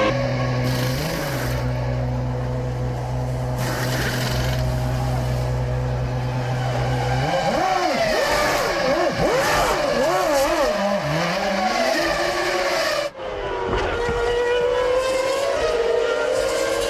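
Formula One cars' 3.0-litre V10 engines at racing revs. A steady drone gives way, about seven seconds in, to engine pitch swinging up and down through gear changes. There is a sudden break about thirteen seconds in, followed by revs rising again.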